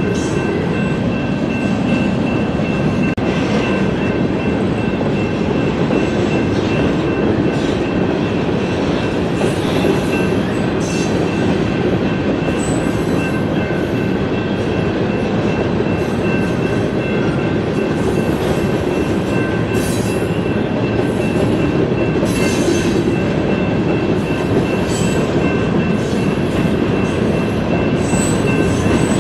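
Freight train cars rolling by: a steady rumble of wheels on rail, with a thin steady wheel squeal and scattered clanks.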